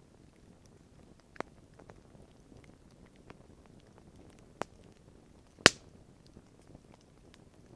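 Campfire crackling: a few sharp pops from burning wood over a quiet background, three of them clear and the loudest a little past halfway.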